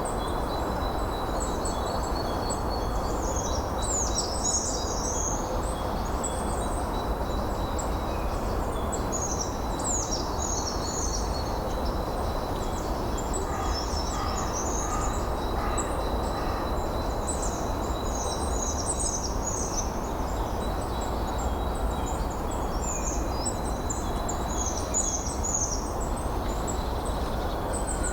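Wind blowing steadily while many small birds keep up quick, high-pitched chirps and trills throughout, over a thin steady high tone.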